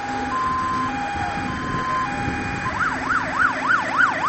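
Fire engine siren sounding a two-tone hi-lo, each tone held just over half a second, then switching about two-thirds of the way in to a fast rising-and-falling wail about three times a second. A vehicle engine runs underneath.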